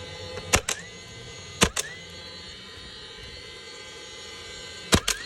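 DeWalt pneumatic roofing nailer firing three nails, each shot a sharp double crack: one about half a second in, one near two seconds, and one near the end.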